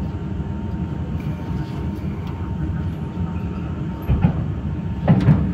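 Ride noise inside a moving electric commuter train: a steady low rumble of the wheels on the track, with a faint steady whine above it. Two louder clunks come about four and five seconds in.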